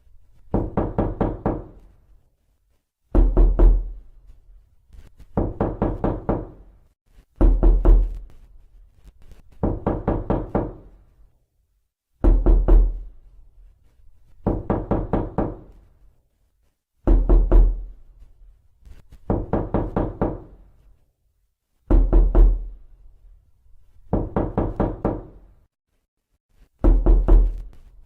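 Knocking on a door in repeated bouts: a quick run of heavy knocks, a short pause, a second run of slightly lighter knocks, then a silent gap before the pattern repeats, about every five seconds.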